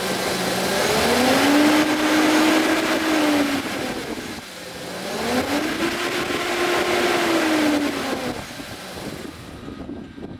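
2008 GMC Sierra 2500 pickup's V8 engine revved twice, each time rising in pitch, holding for a couple of seconds, then falling back; after the second rev it settles down toward idle near the end.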